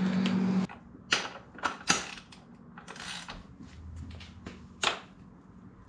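Scattered light clicks and knocks of hand work on a dirt bike, about six over a few seconds. A low steady hum cuts off under a second in.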